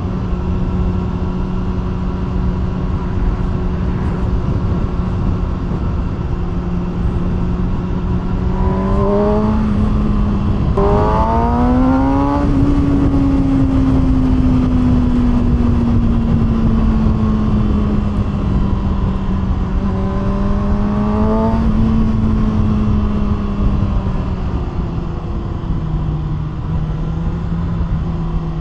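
Kawasaki ZX-6R inline-four through an aftermarket SC-Project exhaust, riding at steady revs. It picks up quickly twice, each time with short rising climbs and breaks like quick gear changes, then settles and slowly drops back. A steady rushing noise runs underneath.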